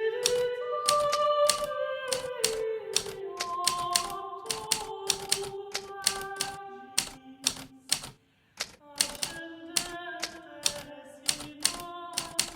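Hermes Baby portable typewriter keys striking at an uneven typing pace, with a short pause just past the middle. Soft background music with long held notes plays underneath.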